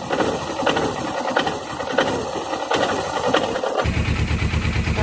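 Suzuki GS500 air-cooled parallel-twin engine running and being lightly blipped with the throttle while its oil is drained. There is a regular stroke about every two-thirds of a second, and about four seconds in the sound changes abruptly to a deeper, steady, rhythmic engine note.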